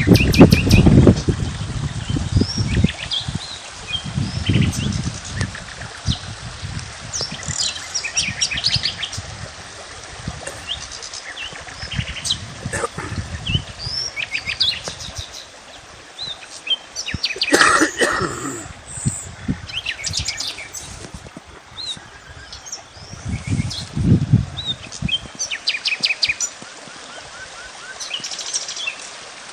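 Several small birds chirping and singing, with short repeated trills and whistled notes over a steady background hiss. Low rumbles come in a few times, near the start, around a quarter of the way through and late on.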